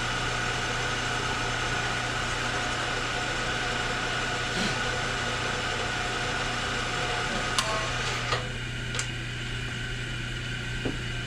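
Metalworking machine tool running steadily, a hum with a higher whine over it. A few sharp clicks come near the end, and about eight seconds in the higher whine drops away, leaving a lower hum.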